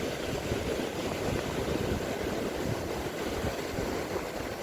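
Wind buffeting the microphone on a beach: a steady, low, rumbling roar with fluttering gusts and the wash of surf underneath.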